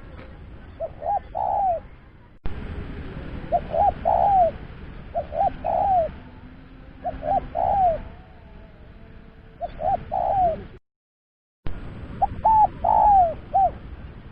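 Spotted dove (tekukur) cooing: a phrase of two or three quick short coos and a longer arched final coo, repeated about every two seconds. The recording is spliced, with abrupt cuts in the background hiss and a brief dead silence about eleven seconds in.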